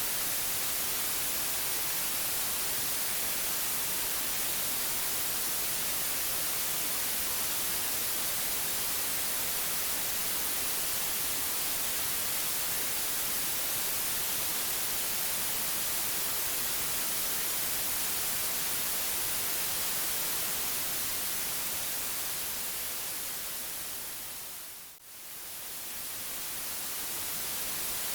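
Steady white noise hiss, even and without any pitch, strongest in the high end. Near the end it fades down to a brief silence and swells back up.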